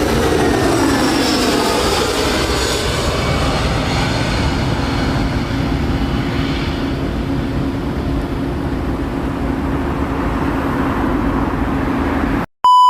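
Jet airliner passing close by: engine roar with whining tones that fall in pitch over the first couple of seconds as it goes past, settling into a steady rumble with a low hum. Near the end the sound cuts off abruptly, followed by a brief loud steady beep.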